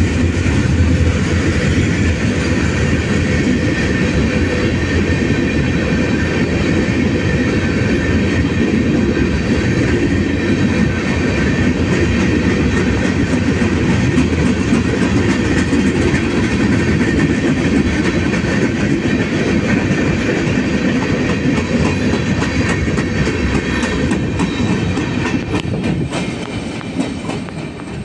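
Freight train's gondola cars rolling past, a steady rumble of steel wheels on the rails, growing quieter near the end.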